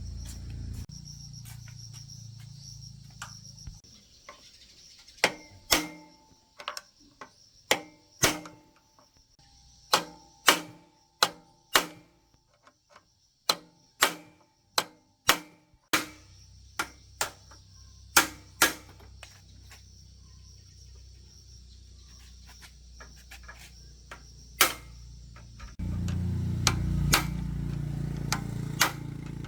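Irregular sharp metallic taps and clinks, about two dozen, some ringing briefly, as tools strike motorbike metal parts. A low steady hum comes in near the end.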